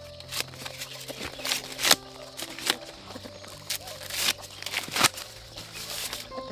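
Irregular dry crackling and snapping of corn husks and stalks as ears of corn are picked and handled, with the sharpest snaps about two seconds and five seconds in, over soft background music with held notes.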